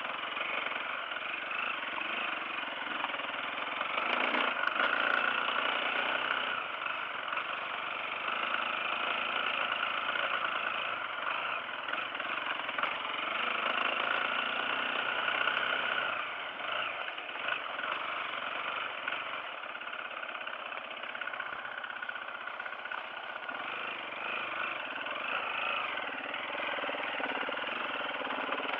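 Off-road motorcycle engine running steadily, a little louder about four to six seconds in.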